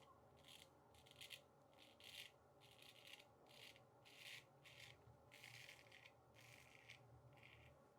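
Faint, short scraping strokes, about a dozen at an uneven pace, of a Weck Sextoblade replaceable-blade straight razor with a Kismet blade cutting through lathered stubble.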